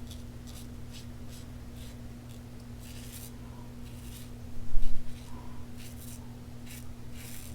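Fine Marvel safety razor scraping through lathered stubble in short, quick strokes, one every few tenths of a second. A loud low thump sounds a little past halfway.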